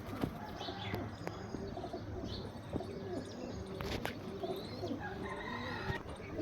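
Domestic pigeons cooing over and over in low, wavering calls, with higher bird chirps scattered among them and a steady low hum underneath.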